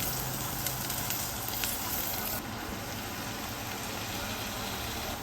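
Steady hissing noise, like food sizzling, with a couple of faint clicks; its brightest top end drops away about two and a half seconds in.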